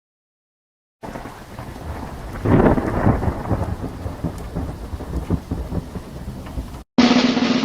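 Thunderstorm sound effect: rain hissing steadily with a rumble of thunder that swells loudest about two and a half seconds in. It cuts off suddenly near the end, and a new sound with a steady low hum starts.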